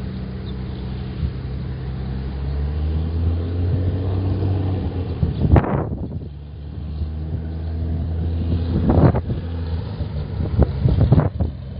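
Cessna light aircraft's piston engine and propeller running steadily, easing briefly about halfway through, with a few short gusts of wind on the microphone.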